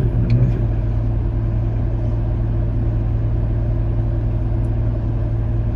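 Car engine idling steadily with no throttle given, a low even hum heard from inside the cabin.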